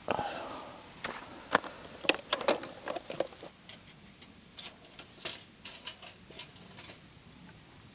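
Small wood fire crackling: irregular sharp pops and snaps, thickest in the first few seconds and thinning out after.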